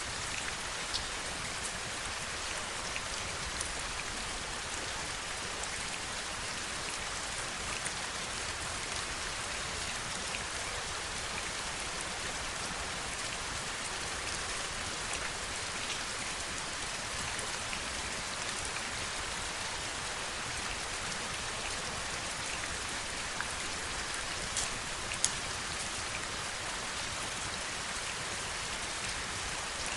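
Heavy rain falling steadily in an even hiss, with scattered single drops ticking sharply on a hard surface close by, two of them louder near the end.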